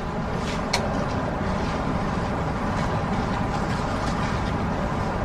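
Steady city street traffic noise, a low rumble of passing vehicles, with a brief click less than a second in.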